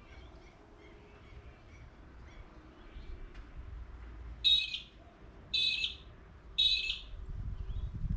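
A bird giving three short, loud calls about a second apart, after a few faint chirps. A low rumble rises near the end.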